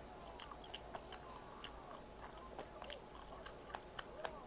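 A person chewing and biting crunchy food up close, with irregular crisp crunches that grow louder in the second half.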